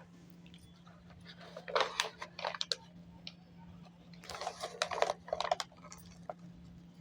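Kindling and paper being handled to build a small bonfire: two short flurries of crackling and clicking, about two seconds in and again around five seconds, over a faint steady low hum.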